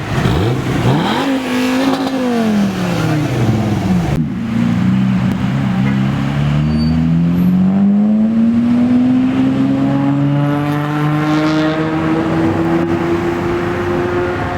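A car engine revving once, its pitch rising and falling over about two seconds. After an abrupt change about four seconds in, an engine note climbs slowly and steadily in pitch for the rest of the clip.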